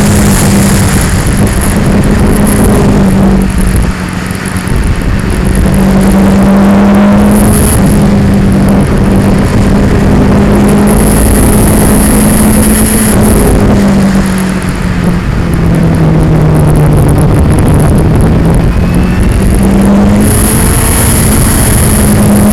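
2002 Yamaha R6's inline-four engine running under way, its note mostly steady, sinking for a few seconds past the middle and climbing again near the end, buried in a loud rushing noise. The recording is spoiled by vibration on the action camera.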